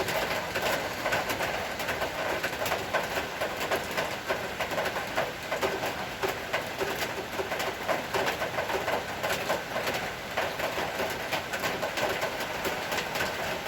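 Rain falling steadily, a dense irregular patter of drops hitting surfaces as the shower eases.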